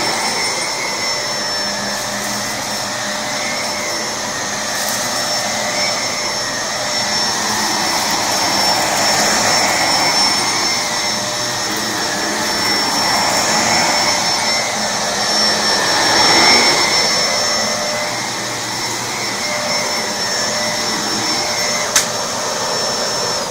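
Electrolux upright vacuum cleaner running on carpet, sucking up leftover rice: a steady motor whine whose sound swells and eases as it is pushed back and forth. A single sharp click comes near the end.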